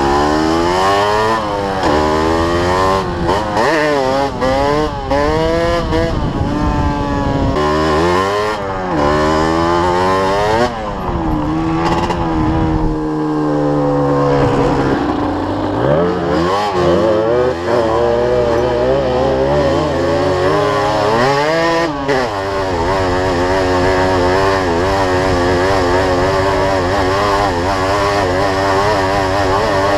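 Yamaha DT125's single-cylinder two-stroke engine revving up and down again and again, then holding a steadier note for the last third.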